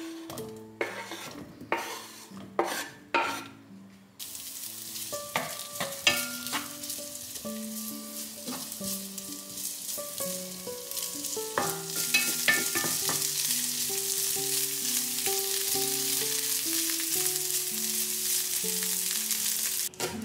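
Diced boiled potatoes tumbling into a stainless frying pan with a few sharp knocks, then sizzling in hot olive oil from about four seconds in while a wooden spatula stirs them with occasional knocks. The sizzle grows louder about twelve seconds in.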